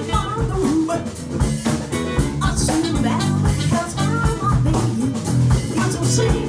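A live band playing, with guitar lines over a drum kit and bass.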